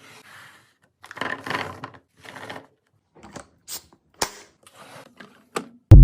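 Plastic containers and packaging being handled while arranging a refrigerator: scattered clicks, taps and light knocks, with a longer rustle about a second in. Loud music starts abruptly right at the end.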